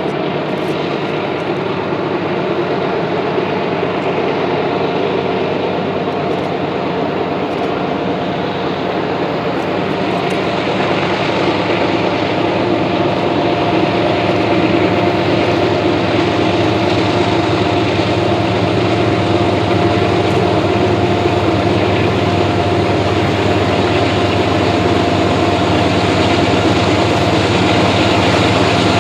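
Diesel locomotive engines running steadily under load, with a low drone and a steady higher whine over it, growing slowly louder.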